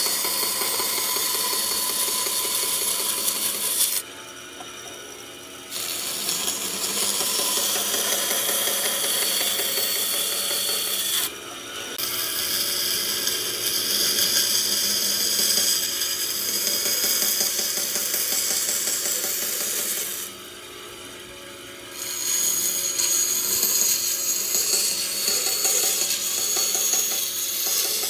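A tool working wood: a steady, loud scraping hiss in long runs, with three short pauses.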